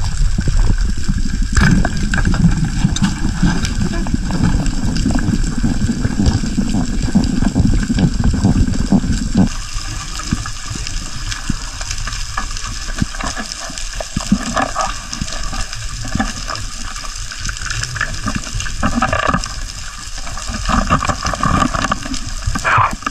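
Sea water rushing and splashing. A strong low rumble runs under it for the first nine or ten seconds, then drops away, leaving lighter, higher splashing.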